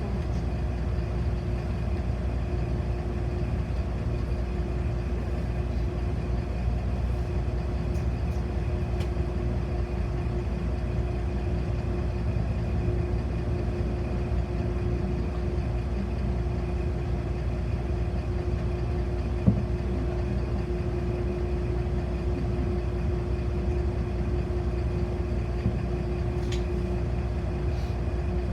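Steady engine and running noise heard inside a city bus, a low rumble with one constant hum over it. A single sharp knock sounds about two-thirds of the way in.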